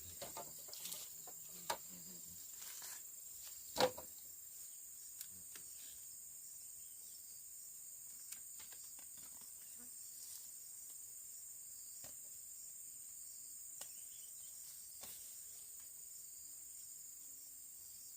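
Insects, crickets or similar, trilling steadily at a high pitch, with a few scattered sharp knocks, the loudest about four seconds in.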